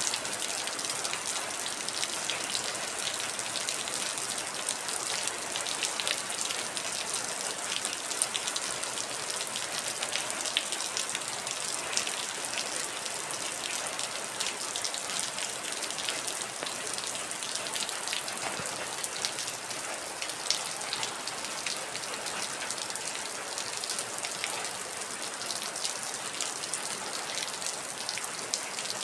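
Steady heavy rain falling, a constant hiss with many individual drops pattering and ticking sharply throughout.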